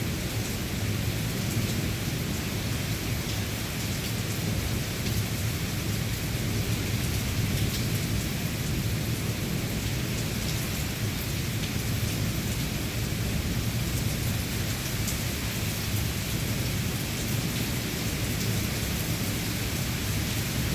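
Steady rain falling, an even hiss with a constant low rumble beneath it and scattered drop ticks.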